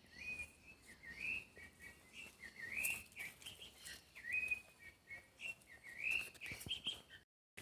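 A bird singing: a steady series of short whistled notes, each sliding up and then dropping, about one or two a second.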